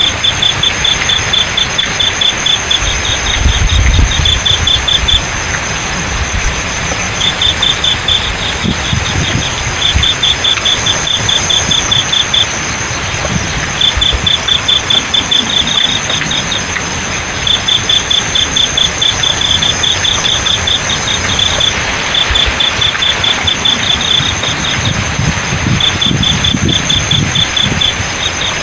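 Crickets chirping in repeated bouts of rapid pulses, over a steady high insect trill and the even hiss of flowing water. Low rumbles come in about four seconds in and again near the end.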